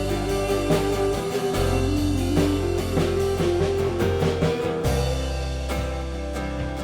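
Live worship band playing an instrumental passage between sung lines: guitar over sustained bass notes and a steady drum kit beat.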